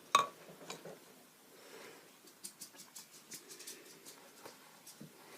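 Small clicks and taps of painting tools being handled on a work surface. A sharp knock comes right at the start, then a quick run of light ticks about halfway through.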